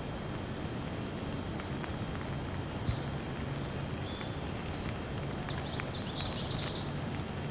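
Steady gentle rain with birds chirping: a few short high chirps, then a quick run of rapid high chirps about two thirds of the way through.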